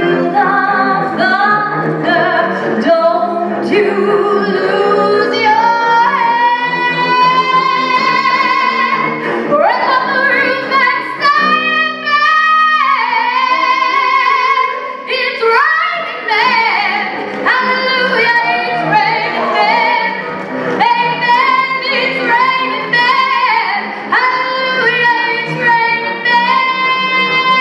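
Woman belting a song live, holding long notes and sliding between pitches, with cello accompaniment underneath.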